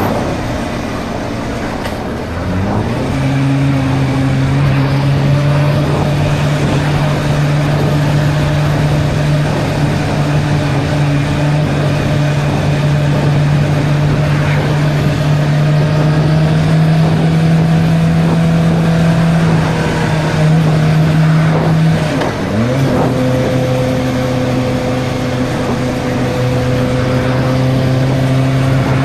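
Suzuki GSR 600's inline-four engine under way: the engine note climbs about two seconds in, then holds steady and creeps slowly higher for a long stretch. About 22 seconds in the pitch drops sharply and settles lower, as at a gear change. A steady rush of wind runs underneath.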